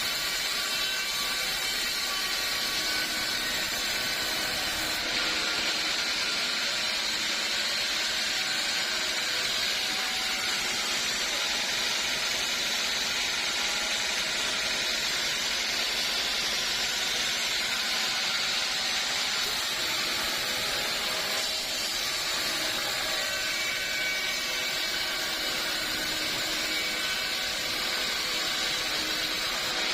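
Sawmill saw running steadily as it cuts through old teak wood.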